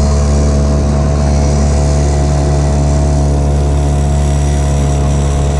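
2 hp Spirit two-stroke outboard motor running at a steady speed, its pitch holding even with no revving.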